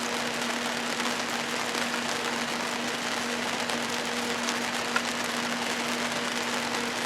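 Steady hiss over a low, steady hum, with one small click about five seconds in.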